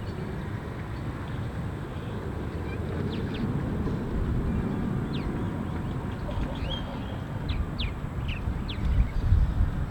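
Short, high bird calls, a few at a time, scattered between about three and nine seconds in, over a steady low rumble.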